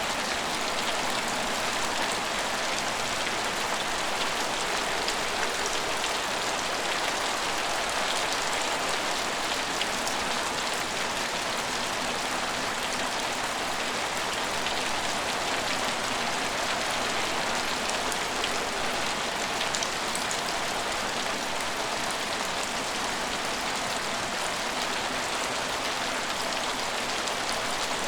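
Steady rain falling and pattering on hard surfaces, with fine scattered drop ticks in the hiss.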